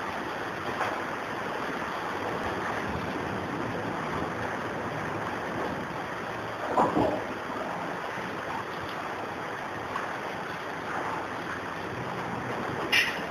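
Heavy rain mixed with hail pelting down, a steady hiss, with a brief louder sound about seven seconds in and another near the end.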